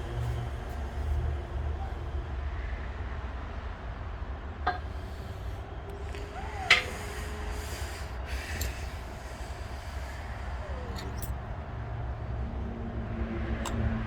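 A few sharp metallic clinks, as of small lawn tractor transmission parts being handled and set down, over a steady low rumble. The two loudest clinks come about two seconds apart near the middle.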